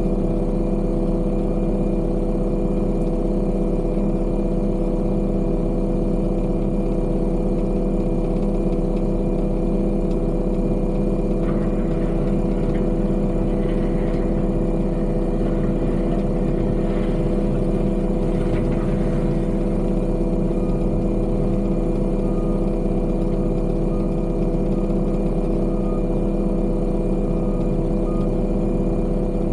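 Heavy diesel machinery engine running steadily at constant speed. About two-thirds of the way in, a faint beep starts repeating about once a second, like a reversing alarm.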